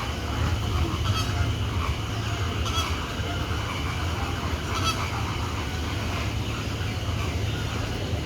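Flamingos honking: a few short goose-like calls about a second, three seconds and five seconds in, over a steady low hum.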